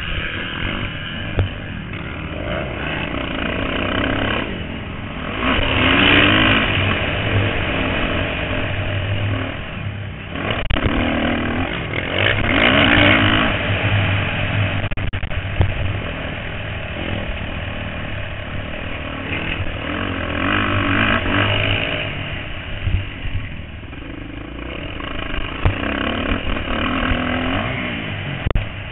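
Motocross dirt bikes racing, their engines revving and swelling louder as riders pass, about four times, over the steady drone of other bikes on the track.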